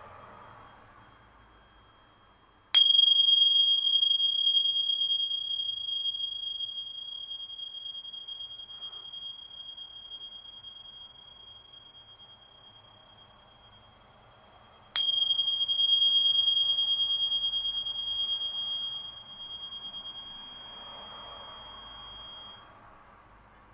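Tingsha, small hand cymbals, struck twice about twelve seconds apart. Each strike gives one bright, high ring that fades away slowly.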